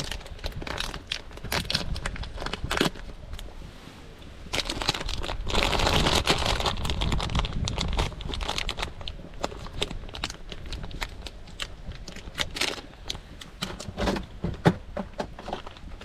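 Crinkling and rustling of food packaging being handled, with scattered clicks and knocks. The crinkling is densest and loudest from about five to eight seconds in.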